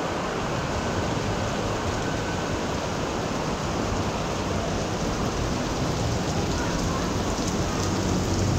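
Heavy rain falling steadily: a dense, even hiss of a tropical downpour beating on surfaces.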